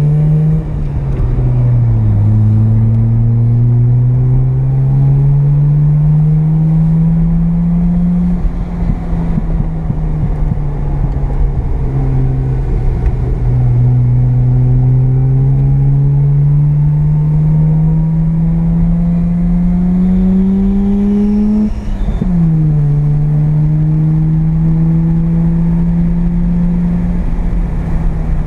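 Mazda RX-7's 12A carbureted rotary engine under load, heard from inside the car. Its pitch climbs steadily as it pulls, dips sharply at gear changes about 2 and 22 seconds in, and drops back and runs level for a while near the middle.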